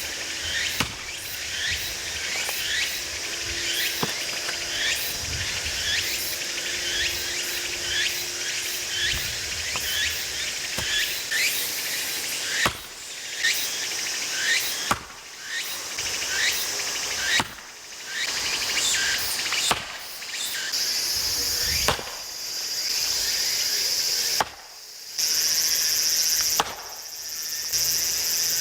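Insects chirring steadily, with a run of short repeated chirps through the first half. A few sharp knocks stand out over it, and it drops out briefly several times in the second half.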